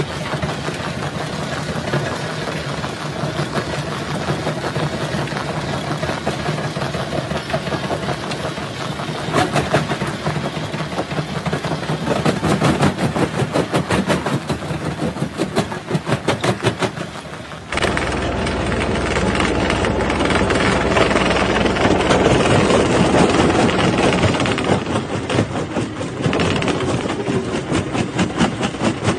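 Jaw-type rock crusher running and breaking stone: a dense clatter of rapid knocks and cracks over the machine's steady running. Partway through the sound cuts abruptly to a deeper, steadier rumble of the crusher and its drive.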